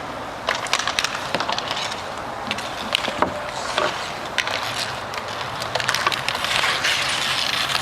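Hockey game in play: skates running on the rink surface with many sharp clacks of sticks and puck scattered throughout.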